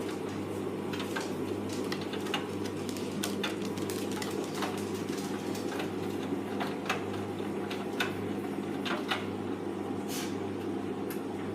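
Hoover Vision Tech VT 914 D22X washing machine running early in a 40°C mixed wash cycle: a steady hum with irregular sharp clicks and ticks over it.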